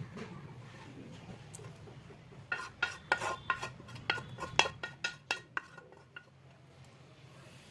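A spoon clinking against cookware: a quick run of about a dozen sharp, ringing clinks in the middle, over a low steady hum.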